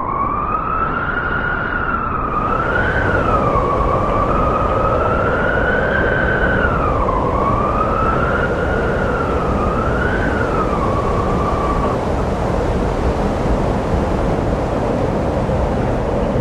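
Strong wind of a sandstorm blowing hard, with a wavering high whistle that rises and falls irregularly and stops about twelve seconds in.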